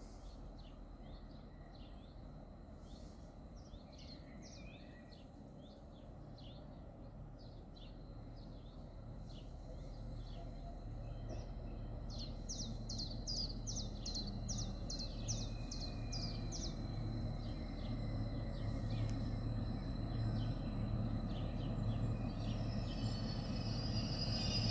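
Birds chirping, with a quick run of about a dozen chirps near the middle, while the low rumble of an approaching train grows steadily louder.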